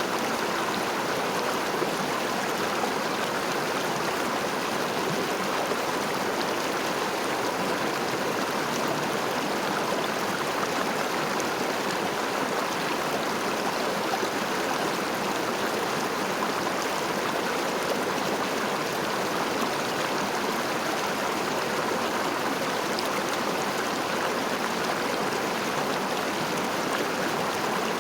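A river flowing: steady rushing and trickling of running water, without a break.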